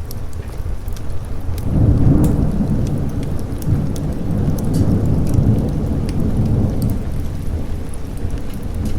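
A long roll of thunder rumbles in about two seconds in, swells, then fades away near the end, over steady rain. Scattered sharp crackles from a fireplace sound throughout.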